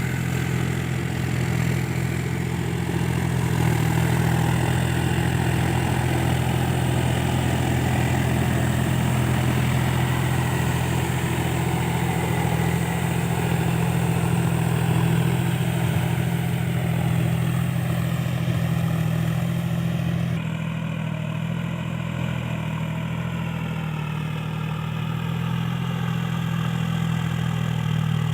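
Powertrac 4WD tractor's diesel engine running steadily while puddling deep mud. About two-thirds of the way through, the sound abruptly turns duller.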